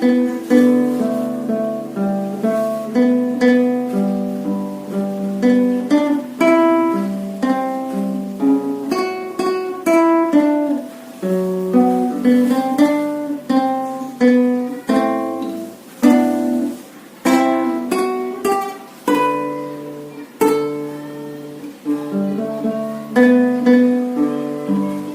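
Solo acoustic guitar played fingerstyle: a plucked melody over arpeggiated accompaniment and low bass notes, each note fading after it is picked.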